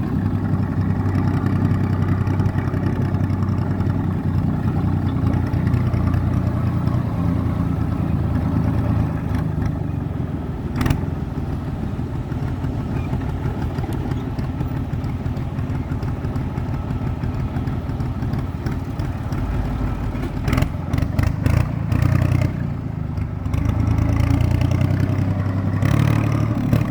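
IMT 549 tractor's diesel engine running steadily under way, with a sharp click about eleven seconds in and a cluster of clicks and clatter about twenty seconds in.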